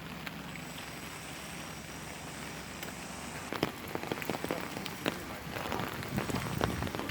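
Rain falling steadily, a continuous hiss; from about three and a half seconds in, heavy drops strike close by, many sharp ticks on top of the hiss.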